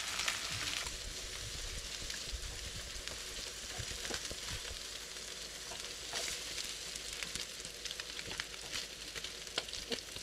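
Spam and Korean fish-cake sausage slices sizzling steadily in a nonstick frying pan, with scattered light clicks of wooden chopsticks against the pan as the pieces are turned and lifted out.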